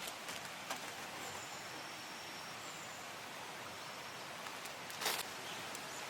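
Steady rush of a small mountain stream. Faint high whistles come in about a second in, and a brief rustle comes near the end.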